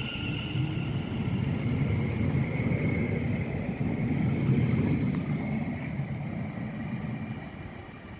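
Passenger train running with a steady low rumble and a faint whine, growing louder to a peak about halfway through and then fading away.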